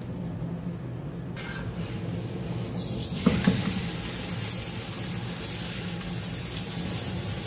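Desi ghee sizzling on a paratha on a hot tawa. The hiss swells in about three seconds in and then runs on steadily, with a single sharp click partway through.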